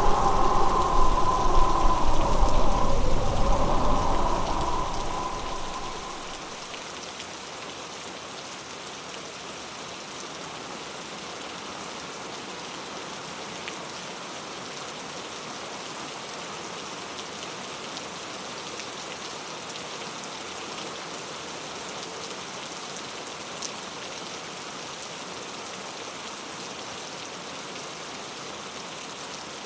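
Steady patter of precipitation falling on a surface, like rain on a tent. At the start a louder sound with a low rumble fades out over about six seconds.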